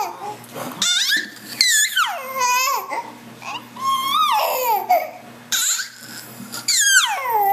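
A baby making high-pitched dolphin noises: a run of about six squealing calls, each swooping up and then sliding down in pitch.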